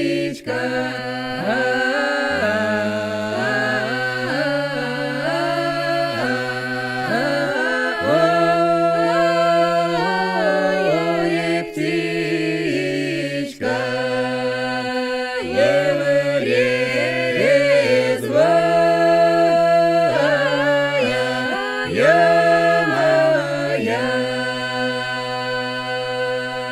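Russian folk polyphonic singing, unaccompanied. Several voices hold long drawn-out notes in harmony, sliding between pitches, with short breaks between phrases.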